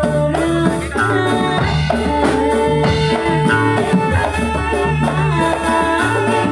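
Ndolalak music playing: drums and percussion keep a steady rhythm under sustained melody notes.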